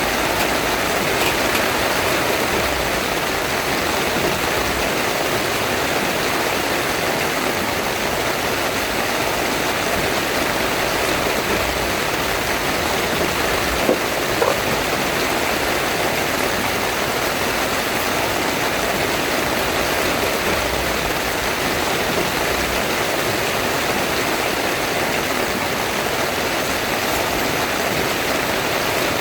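Heavy rain falling steadily on a tent, an unbroken dense hiss, with a couple of faint taps about halfway through.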